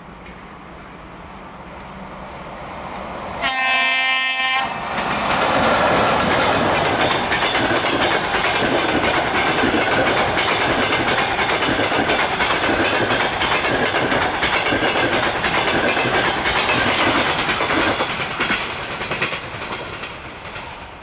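ChS200 two-section electric locomotive approaching with a passenger train, its rumble growing. About three and a half seconds in it gives one horn blast of about a second. The long train then passes close by with loud rail and wheel noise and the clatter of the carriages' wheels over the rail joints, fading near the end as the last coach draws away.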